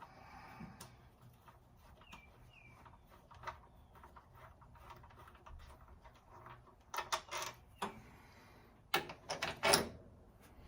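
Metal tools and bolts clinking and rattling as they are handled during engine teardown, in two short bursts in the second half over a quiet background. Two faint short chirps come early on.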